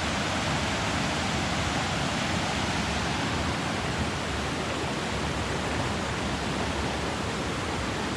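Steady rushing of a mountain creek's flowing water, close by.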